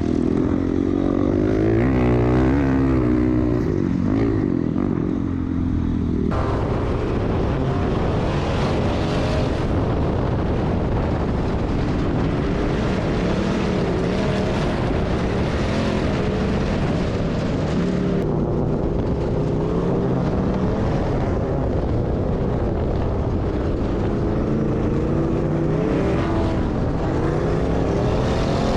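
Off-road vehicle engine revving, its pitch rising and falling repeatedly; the sound changes abruptly about six seconds in.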